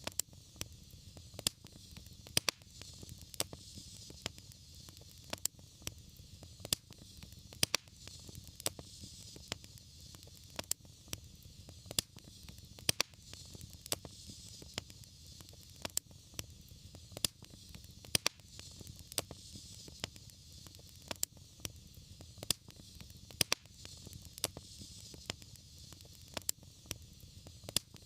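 Wood fire burning, with frequent sharp irregular crackles and pops over a steady soft hiss and low rumble.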